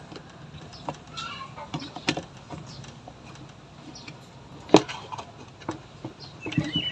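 Chickens clucking in short pitched calls, with a few sharp clicks; the loudest click comes about five seconds in.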